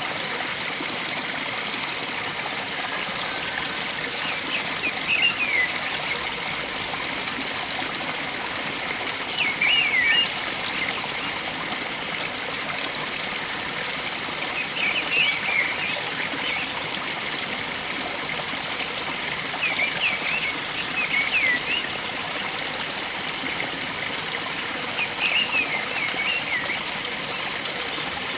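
Flowing water running steadily, with a bird repeating a short phrase of quick, falling high notes about every five seconds.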